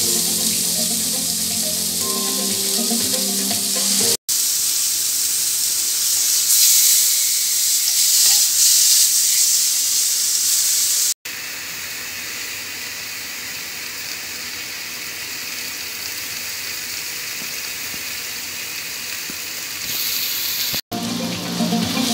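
Chicken sizzling in a stovetop grill pan, a steady frying hiss that is louder in the first half and quieter in the second. It drops out for an instant three times, and background music plays over it at the start and near the end.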